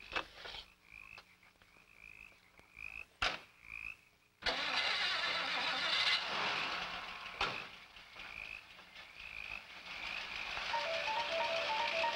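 A car engine starts suddenly about four seconds in and keeps running, over a rhythmic high night chirping that repeats about once a second. A knock comes before the engine starts and another shortly after. Near the end a simple music cue of plinking notes begins.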